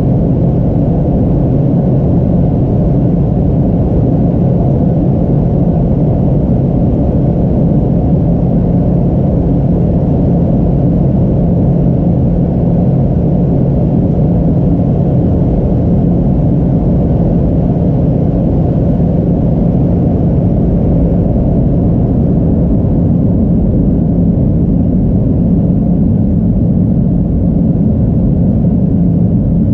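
Airliner cabin noise: the steady low rumble of the engines and airflow, with a constant hum that eases slightly about two-thirds of the way through.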